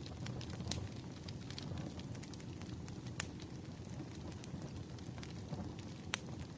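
Burning firewood crackling: a steady low rumble of flames with many small snaps and a few sharper pops.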